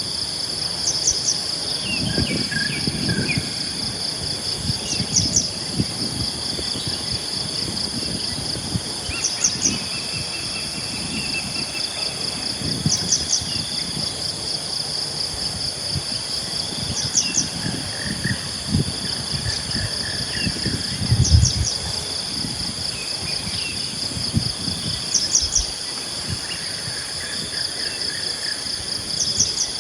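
Morning insect chorus: a steady high, cricket-like drone with a short triple chirp repeating about every four seconds, and scattered bird calls over it. Soft low rumbles come and go underneath, the strongest about two-thirds of the way through.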